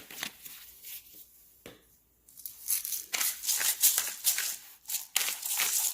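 Kitchen handling noise while seasoning chicken: a sharp click at the start and another a little later, then from a couple of seconds in a dense, crackly rustling and crinkling that keeps going.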